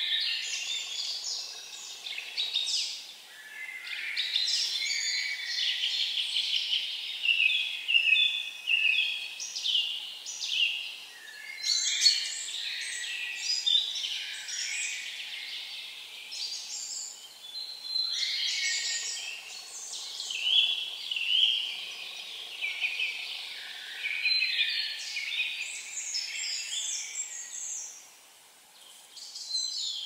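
Songbirds singing, one high phrase after another with short pauses between them.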